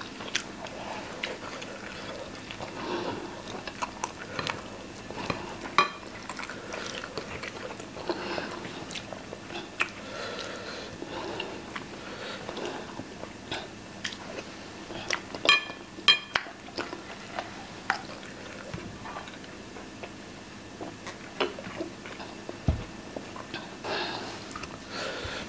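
Close-up mouth sounds of people chewing and biting into baked beans, sausages and toast, with the odd sharper click of a metal fork against a ceramic plate, the loudest about fifteen seconds in.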